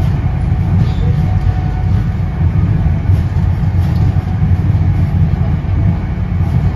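NJ Transit Comet II/IV passenger coach running at speed, heard from inside the car: a steady low rumble.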